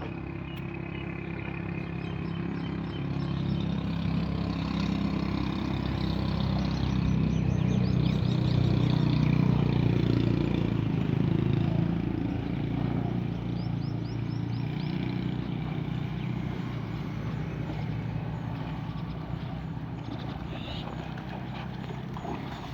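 A motor engine running steadily, growing louder toward the middle and fading again, as of a vehicle passing slowly. Small birds chirp in quick series above it.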